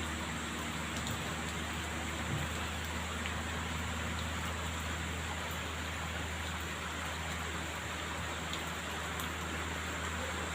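Steady rain falling, with scattered drop ticks, over a low, steady vehicle engine hum.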